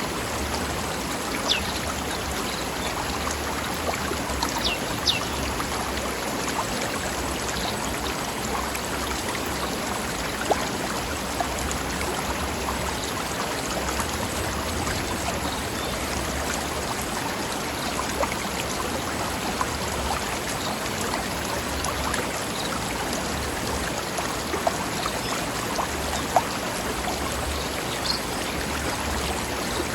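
Mountain stream running steadily over rocks, a continuous babbling rush of water with small splashes scattered through it.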